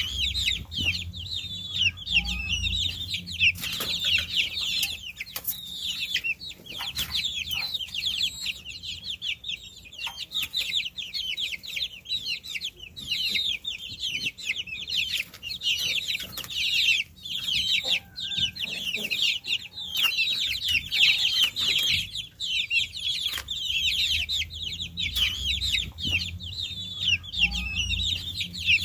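A brood of baby chicks peeping continuously: many short, high, downward-sliding chirps overlapping with no pause.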